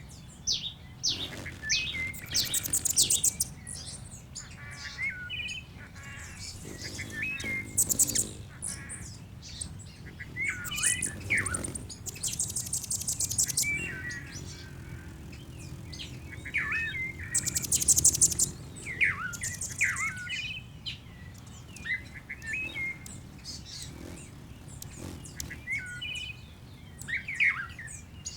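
Songbirds singing: repeated short warbled phrases, with brief, very high rapid trills every few seconds.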